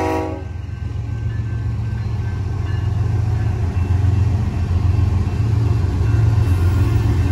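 A train horn cuts off just after the start, then Union Pacific diesel locomotives rumble past through the crossing, the deep rumble growing louder as they go by.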